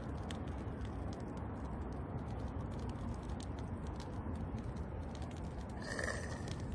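Firewood burning in a fire pit, crackling with many small scattered pops over a low steady rumble. A brief higher-pitched sound comes about six seconds in.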